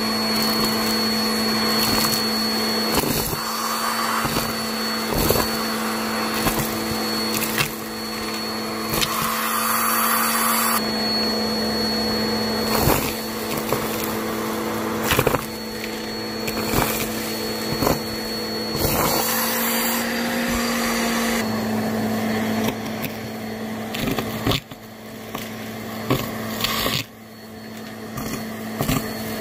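Shark Helix vacuum cleaner running steadily with a motor hum and a high whine, while sharp clicks and rattles of coin-mix debris and carpet powder come as they are sucked up. The pitch and level shift a few times, dipping briefly about two thirds of the way through.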